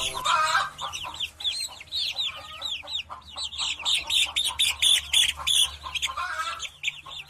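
Chickens calling: a rapid run of many short, high peeping and clucking notes.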